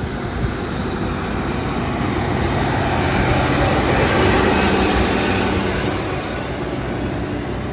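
TasRail diesel locomotive TR08 running as it leads a freight train over a level crossing. Its engine drone swells to a peak about halfway through and then eases slightly.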